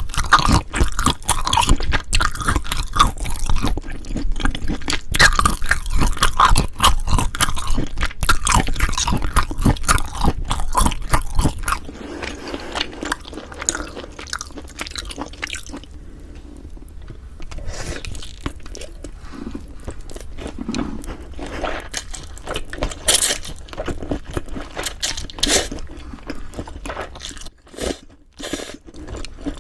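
Close-miked eating sounds: rapid, busy chewing and crunching for about the first twelve seconds, then quieter chewing with scattered sharp clicks and smacks.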